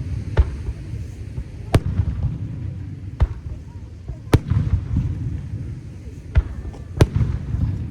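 Aerial firework shells bursting, with about five sharp bangs at irregular intervals over a continuous low rumble of further bursts and their echoes.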